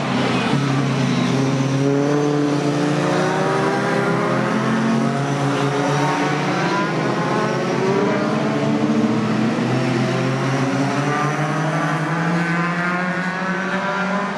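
Several racing pickup trucks' V8 engines running together, their pitch wavering up and down as they drive around the circuit.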